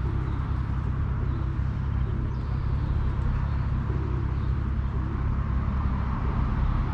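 A steady low outdoor rumble with no distinct events.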